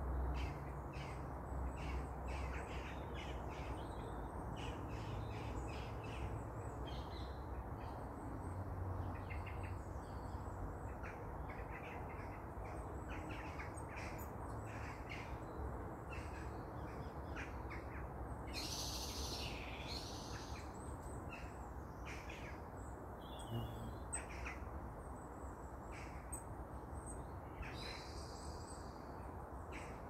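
Wild birds calling in the treetops, many short chirps scattered throughout, with a louder call about two-thirds of the way in and another near the end, over a steady low rumble.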